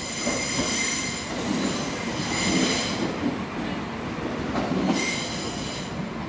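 Train at a station platform, its wheels squealing in three short bursts over a steady rumble of the moving train.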